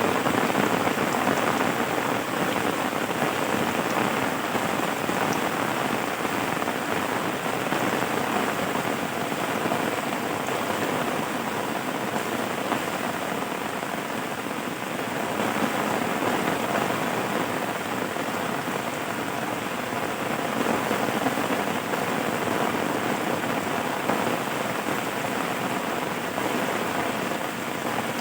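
Rain falling steadily, an even hiss of many drops that keeps up throughout.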